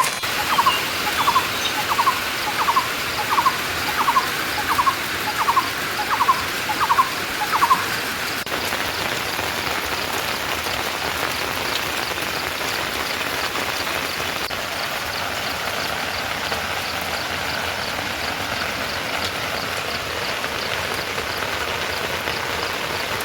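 Heavy rain falling steadily. For the first eight seconds a short animal call repeats about eleven times, a little more than once a second, over the rain.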